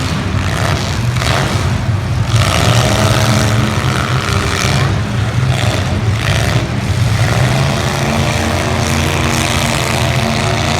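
Several demolition derby cars' engines running loudly together, revving up and dropping back repeatedly as they manoeuvre.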